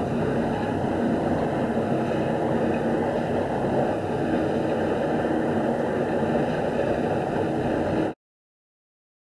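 Plasser track maintenance machine running, a steady mechanical noise with a faint hum. The sound cuts off abruptly to dead silence about eight seconds in.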